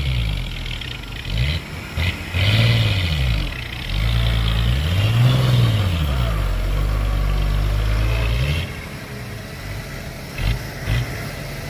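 Heavy diesel engine of a dump truck or bulldozer revving up and down in repeated surges. The engine then holds high and drops back about eight and a half seconds in, with a couple of short knocks near the end.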